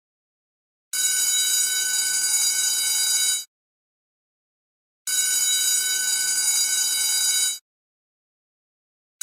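Electric school bell ringing in repeated bursts of about two and a half seconds, each cut off sharply and followed by a second or so of silence: two full rings, with a third starting right at the end.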